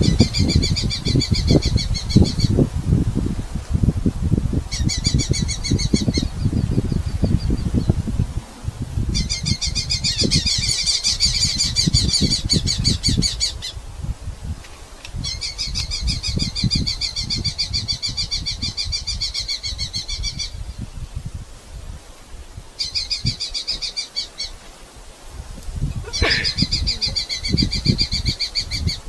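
Red-footed falcons giving rapid, chattering calls in repeated bouts of one to five seconds, over low rumbling and rustling noise.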